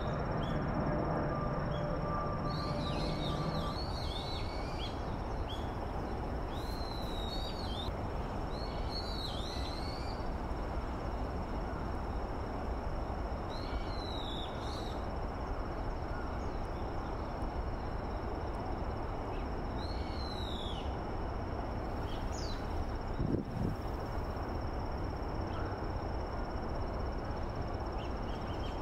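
Wild birds calling: short, high, arched whistled notes repeated in small clusters, over a steady rush of outdoor background noise. Background music fades out in the first few seconds, and a single dull thump comes near the end.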